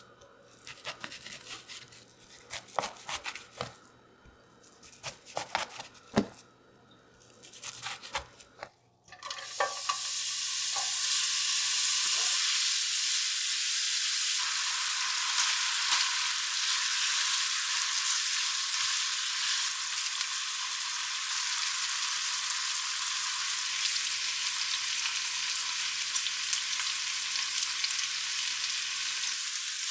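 Small clicks and knocks of kitchen work, then about a third of the way in a steady, loud sizzle of food frying in a hot pan starts suddenly and carries on.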